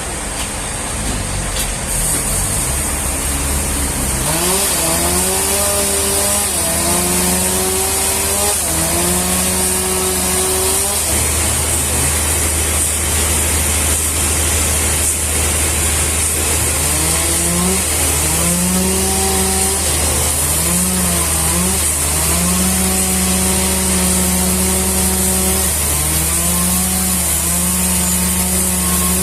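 Sawmill machine engine running under changing load, its pitch climbing, holding and dipping again several times, over a steady high hiss.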